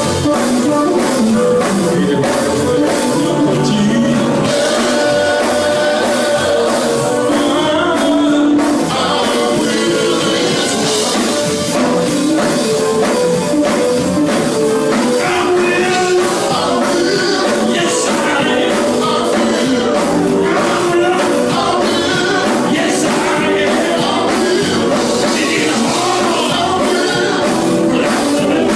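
Live gospel music: voices singing over a band with a steady drumbeat.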